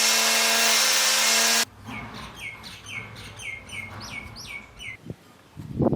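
An electric power tool running with a steady hum, cutting off suddenly. Then a bird calls a rapid series of short downward-sliding chirps, about eight of them, with a couple of knocks near the end.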